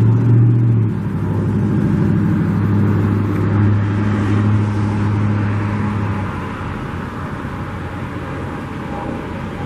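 A motor vehicle's engine running with a steady low hum that stops about six seconds in, over wind buffeting the microphone.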